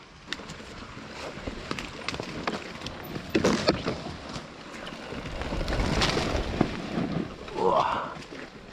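Dirt bike engine running and revving as the bike is ridden along a muddy trail, growing louder a few seconds in, with wind noise on the microphone.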